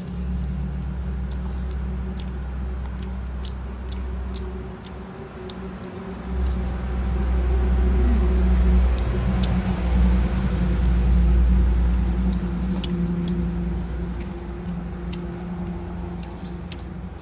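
A motor vehicle's engine running with a steady low rumble that gets louder from about six seconds in and eases off toward the end, with scattered light clicks over it.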